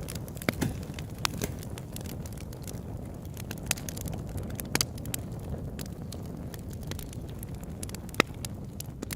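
Campfire crackling: scattered sharp pops and snaps of burning wood over a steady low rumble, with one louder pop near the end.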